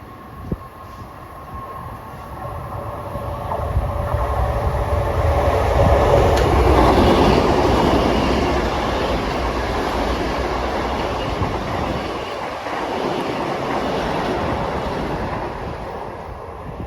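A Long Island Rail Road train passing on the tracks, its running noise building over the first six seconds or so, staying loud, then easing off near the end.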